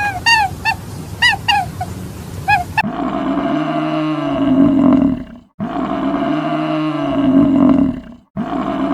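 Short, high-pitched animal calls in quick succession. About three seconds in, they give way to a low, drawn-out animal roar that repeats three times in the same way, each call about two and a half seconds long with a short gap between.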